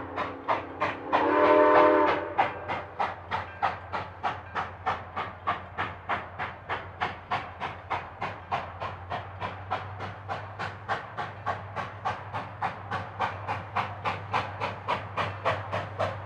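Steam locomotive working hard up a grade, its exhaust chuffing in an even beat of about three to four a second, with a chime whistle blast about a second in that lasts about a second.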